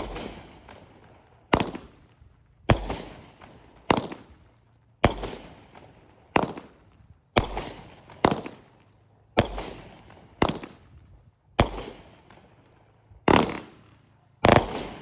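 Consumer firework going off in a string of about thirteen sharp bangs, roughly one a second, each ringing out briefly before the next.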